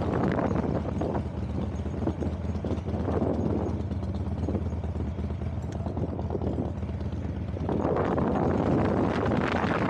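A vehicle on the move: an engine running at a steady hum, with wind rushing over the microphone that grows louder near the end.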